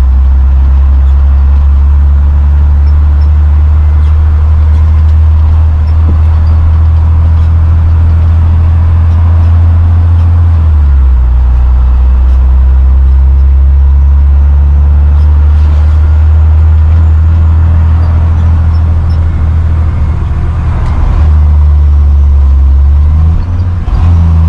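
Military truck cruising on the road, heard from inside the cab: a loud, steady low engine and road drone.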